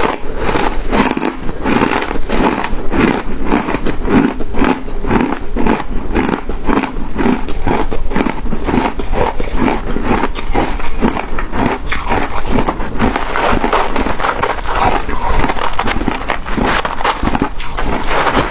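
A person chewing and biting crunchy shaved jewelry ice close to the microphone: continuous loud crunching, several crunches a second.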